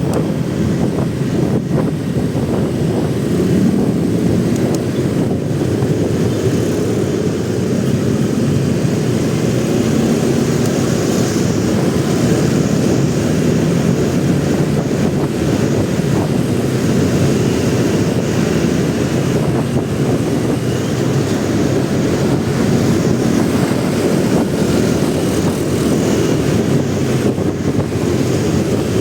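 Steady wind rush on an action camera's microphone while riding a motorcycle, mixed with the motorcycle's engine running, loud and even throughout.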